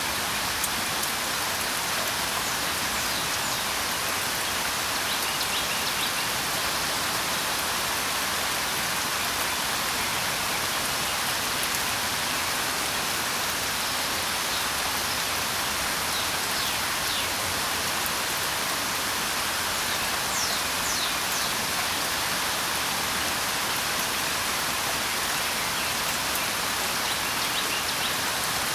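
Steady rain hiss, with a few faint, short, high bird chirps now and then.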